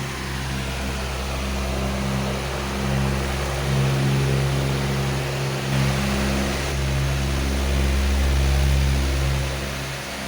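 Powerful electric fan running: a steady rush of air over a low motor hum, its level swelling and easing a little.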